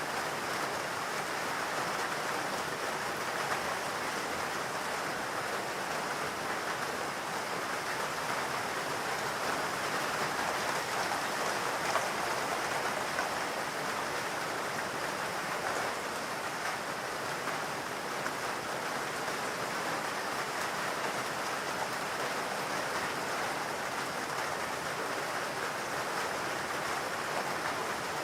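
Steady rain falling in a forest, an even hiss of drops with a few faint individual drop ticks.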